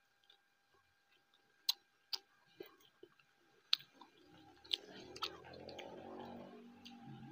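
Close-miked eating by hand: soft chewing with a few sharp mouth clicks and smacks. From about halfway, a vehicle engine grows steadily louder in the background.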